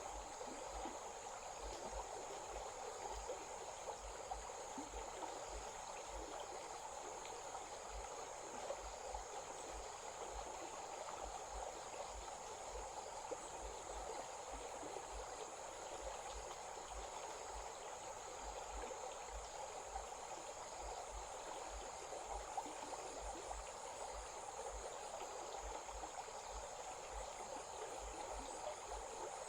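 A small stream running steadily, with insects chirring in a constant high band over the water.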